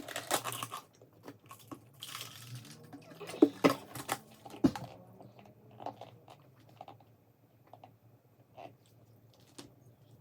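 A person chewing and crunching KFC food close to the microphone, with dense loud crunches in the first five seconds, then fewer, quieter chewing clicks.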